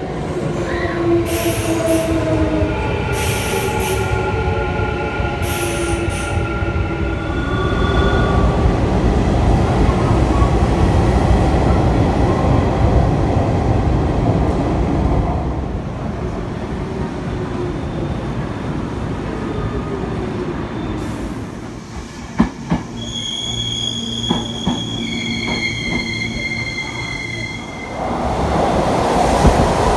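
Electric commuter trains at station platforms. One train's motors whine, falling in pitch as it slows, over the rumble of wheels on the rails. Later come a few sharp clacks and several steady high tones as another train pulls in, then a fresh burst of rumbling near the end.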